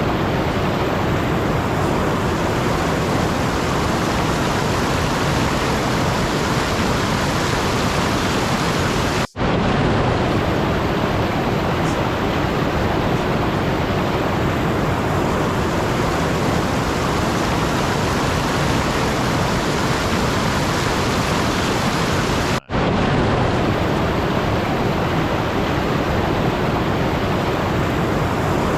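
Steady, even rushing noise, like rain or static, that cuts out for a split second twice.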